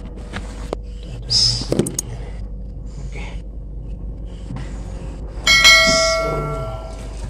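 A single metallic ring, like a small bell or a piece of metal struck once, about five and a half seconds in, fading away over a second or so. Before it, a short hissing rustle with a few clicks.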